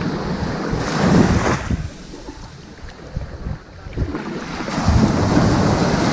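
Ocean waves washing onto a sandy beach: one wave breaks and rushes up about a second in, falls away to a lull, and another builds from about five seconds in. Low rumble of wind on the microphone underneath.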